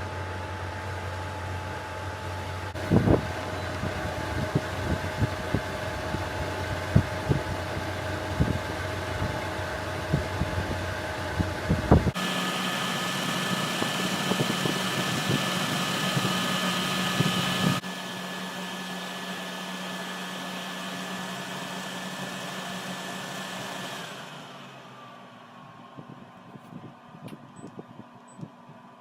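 Portable air conditioner's fan motor running with a steady whirr and hum, with sharp knocks over the first twelve seconds. The sound changes abruptly to a higher whir about twelve seconds in and gets quieter again about eighteen seconds in. About twenty-four seconds in it winds down with a falling tone, leaving only faint clicks.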